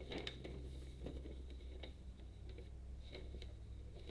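Paper instruction booklet being handled, with light rustles and scattered soft ticks as its pages are turned, over a steady low hum.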